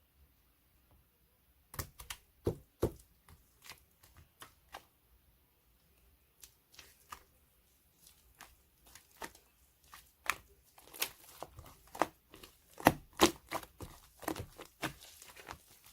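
Ice cream foam being squished and pressed by hand, making irregular crackling pops and crinkles. They start about two seconds in and grow denser and louder toward the end.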